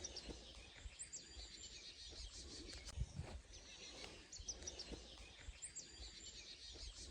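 Faint songbird song over low outdoor rumble: two runs of quick, high chirping notes, about a second in and again about four and a half seconds in.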